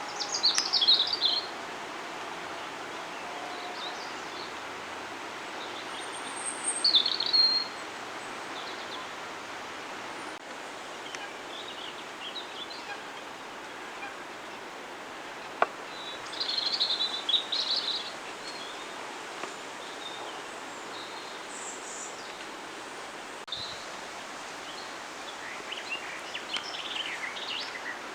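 Birds chirping in short bursts of high calls over a steady outdoor background hiss; the loudest bursts come about a second in, around seven seconds and again around seventeen seconds, with more chirping near the end.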